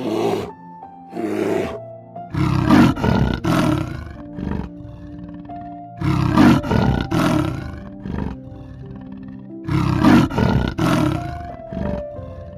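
A lion roaring in repeated bouts of several roars each, about every four seconds, over background music.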